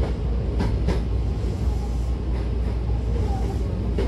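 Hankyu commuter train running, heard from inside the carriage: a steady low rumble with a few sharp clicks, two close together about half a second in and another near the end.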